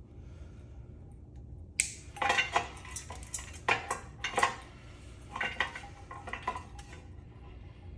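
Metal parts from a dismantled ceiling fan being handled, clinking and clattering against each other and the work surface. An irregular run of light knocks starts about two seconds in and stops near the end.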